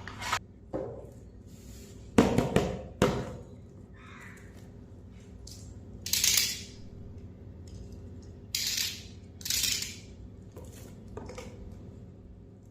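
Toy packaging being handled during unboxing: a few sharp knocks about two to three seconds in, then short rustling swishes about six, nine and ten seconds in.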